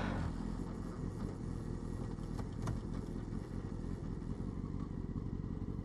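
Motorcycle engine running steadily, with a low, even drone.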